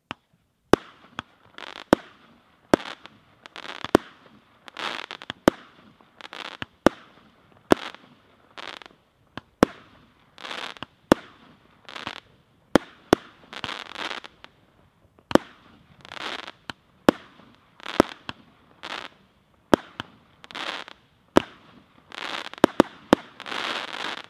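Hirt & Co 'Magma' consumer firework battery firing shot after shot: a sharp report about once a second, each followed by a second or so of crackling hiss as the silver glitter bursts open. The shots come in quick succession near the end for the crackling finale.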